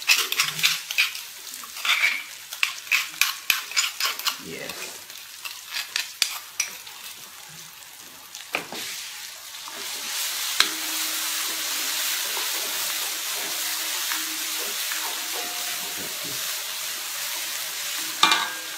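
A wooden spatula scraping and knocking against a wok as pounded dried chilli paste is stirred in hot oil with onion and garlic. About ten seconds in, the knocks give way to a steady sizzle as the chilli paste fries.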